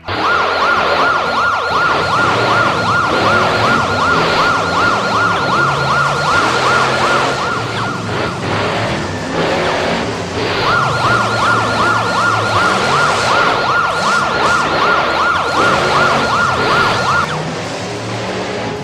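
Fast warbling siren, about four wails a second, sounding for about eight seconds, breaking off, then starting again for about six seconds, over background music.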